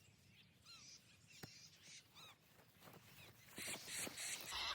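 Faint calls of a flock of birds: many short chirps rising and falling, repeating. About three and a half seconds in, a louder scuffing noise starts.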